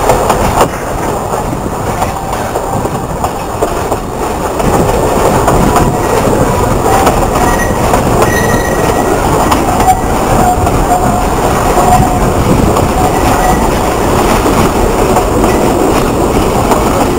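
Alishan Forest Railway narrow-gauge train running along the track: a steady rumble and wheel clatter, with a faint high wheel squeal in the middle stretch.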